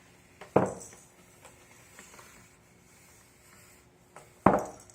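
A toy knocking twice against a hard surface, about four seconds apart, each knock coming just after a small click and ringing briefly.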